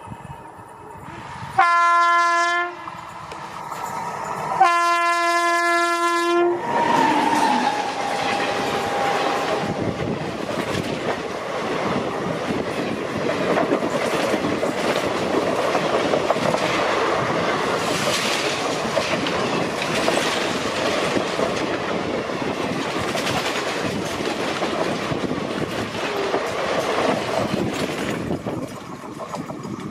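WAG 9 electric locomotive sounding its horn twice, a short blast then a longer one. The superfast express then passes at speed: a long rush of coaches with wheels clattering over the rail joints, dropping away as the last coach goes by near the end.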